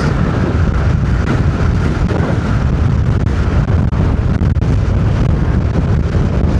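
Strong wind rumbling steadily on the microphone of a moving car, mixed with road noise.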